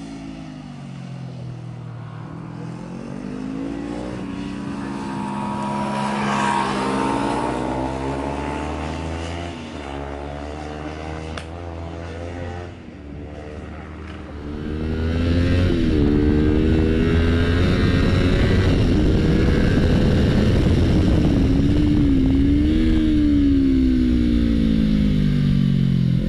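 Kawasaki Ninja 250 parallel-twin engine revving up and down through the gears as it laps a track. In the first half it is heard from trackside, rising and falling as the bike passes. From about halfway it is loud and close, heard from on the bike itself with wind rush.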